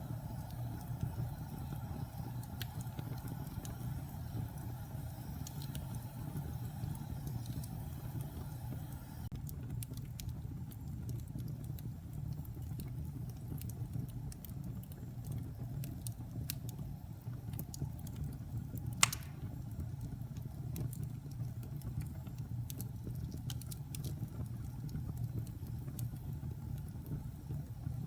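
Wood fire burning in a fireplace: a steady low rumble with scattered small crackles, and one sharp, much louder pop about two-thirds of the way through.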